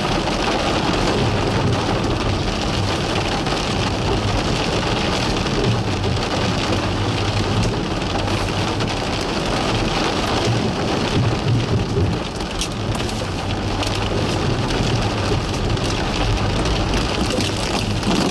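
Rain beating on a car's windshield and roof, heard inside the cabin, over the steady rumble of the vehicle and its tyres on a wet road.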